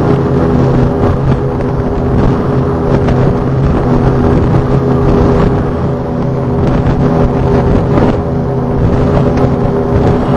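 Guardian patrol launch's engines running steadily at cruising speed, a constant drone with a rushing noise over it.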